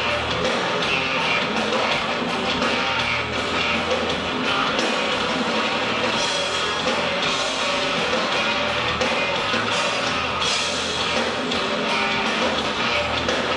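Loud live heavy rock played by a full band: distorted electric guitars, bass and drum kit with cymbals, continuous and dense.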